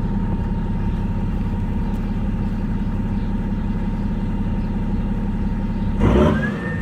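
BMW 535d's twin-turbo diesel straight-six idling steadily through an exhaust with the catalytic converter and DPF removed, then revved once near the end, its pitch rising and falling back.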